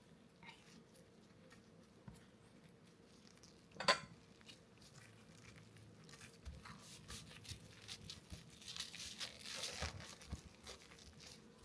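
Kitchen handling sounds during food prep: one sharp click about four seconds in, then a run of small clicks and rustling that builds near the end.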